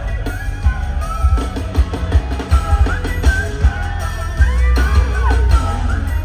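Loud pop music played live through a concert sound system: a pounding kick drum and heavy bass under gliding sung or synth lines.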